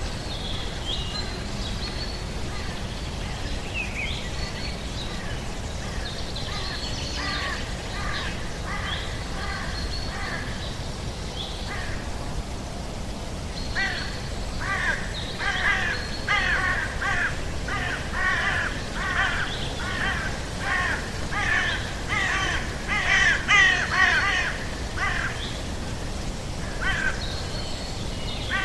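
Birds calling outdoors over steady low background noise. There are a few thin, high calls near the start. From about halfway through, a bird calls over and over, about two calls a second, for some ten seconds; this is the loudest part.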